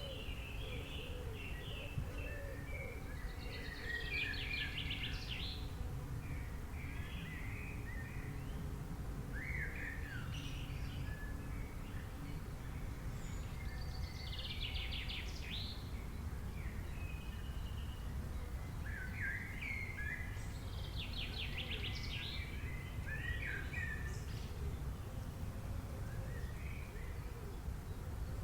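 Wild birds chirping and calling in short scattered notes, with a fast trilled phrase three times, over a steady low background rumble.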